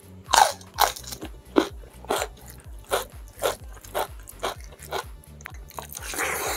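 Close-up crunching of raw bitter melon being bitten and chewed, with crisp crunches about twice a second. A longer, louder mouth noise comes near the end as a handful of curried fish goes into the mouth. Background music with a steady low beat runs underneath.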